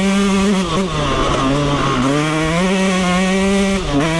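Yamaha YZ125X dirt bike's 125 cc single-cylinder two-stroke engine revving under throttle. The pitch falls about a second in, holds lower for a couple of seconds, climbs back up, and falls again near the end as the throttle is rolled off and on.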